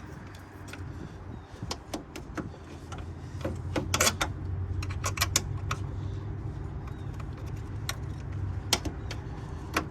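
Scattered metallic clicks and clinks of a wrench working the terminal nuts of a car battery, with a cluster of them about four seconds in, over a steady low hum.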